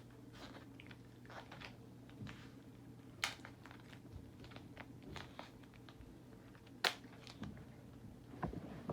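Adhesive tape being handled and pressed onto a plastic toy: scattered crinkles and small clicks, with two sharper snaps about three and seven seconds in.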